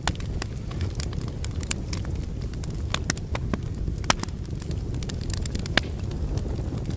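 Wood fire burning in a fireplace: a steady low rumble of flames with irregular sharp crackles and pops from the logs, two louder pops about four and six seconds in.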